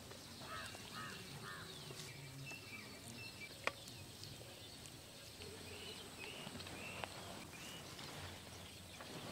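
Faint birdsong: scattered short chirps, with three quick arched calls about half a second in, over a low steady background hiss. A single sharp click sounds a little before the middle.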